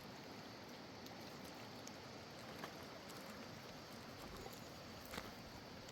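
Faint, steady outdoor background noise with two light clicks, one a little under halfway and one near the end.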